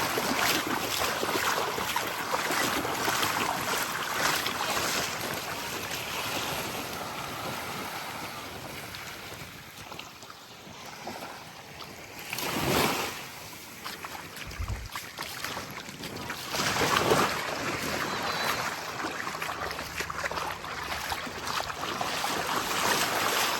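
Small waves lapping and washing up the shore, swelling now and then, with a stronger wash about halfway through and another a few seconds later. Breeze buffets the microphone.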